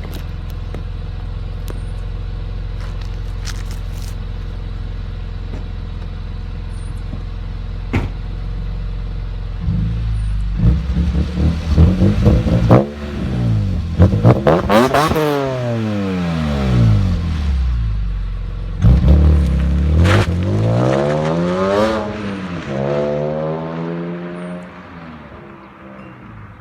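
Straight-piped BMW E46 M3's 3.2-litre straight-six idling steadily through its exhaust, then revved from about ten seconds in: a few quick blips and two long revs that rise and fall back, before it settles and goes quieter near the end.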